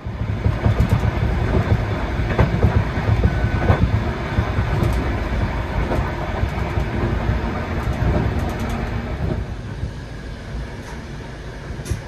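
Passenger train running on the track: a loud, dense rumble with rapid clatter of wheels and carriage. It starts abruptly and eases somewhat near the end, with a few sharp clicks.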